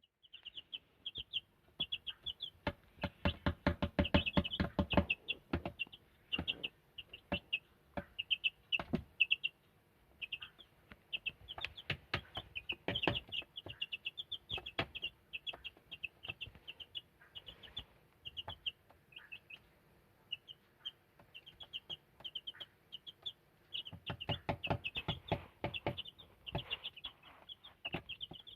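Black silkie chickens calling in short high peeps over and over, with bursts of rapid clicking taps that are loudest about four seconds in and again near the end.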